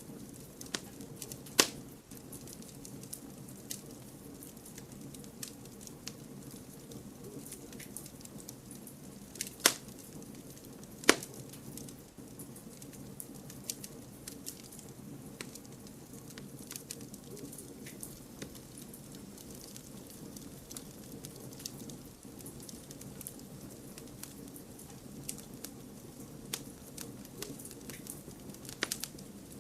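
Wood campfire burning, a steady low rush of flame with scattered crackles and pops; three sharp pops stand out, about 2 seconds, 10 seconds and 11 seconds in.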